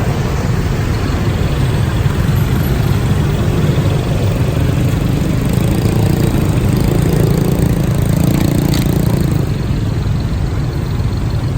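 Motorcycle engine running steadily under a rush of wind and road noise, heard from on board the moving bike.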